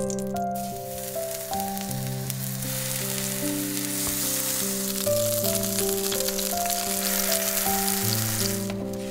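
Eggplant slices sizzling in hot oil in a frying pan as they are laid in, a steady crackling hiss that starts about a second in. Background music with a simple melody plays over it.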